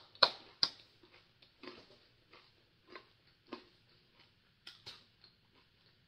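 Crunchy roasted corn arare (Japanese rice crackers) being chewed close to the microphone: a few loud, sharp crunches in the first second, then softer, sparser crunches.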